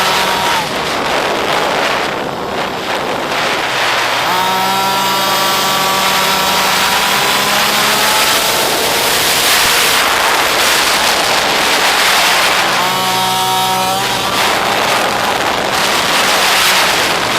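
Pit bike's small single-cylinder engine running hard and revving: the pitch climbs and holds high, backs off, then climbs again. There is a heavy rush of wind and engine noise throughout.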